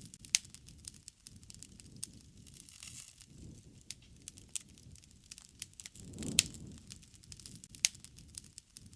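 Wood fire crackling, with sharp pops scattered irregularly through it and a low rush that swells briefly about six seconds in.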